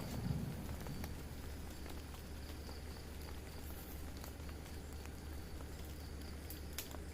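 The tail of a thunder rumble dies away in the first second, leaving quiet, steady rain with scattered drops ticking.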